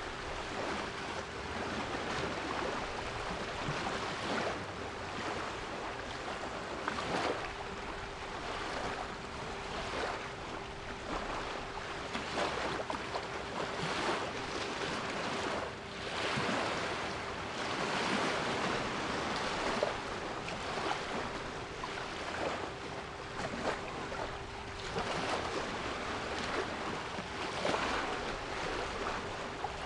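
Sea waves washing and breaking in repeated surges, with a steady 396 Hz pure tone held underneath.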